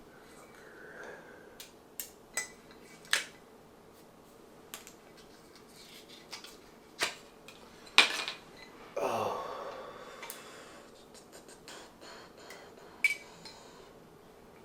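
Scattered sharp clinks and knocks of small hard objects being handled, about a dozen, the loudest about eight seconds in, followed by a short sound that falls in pitch.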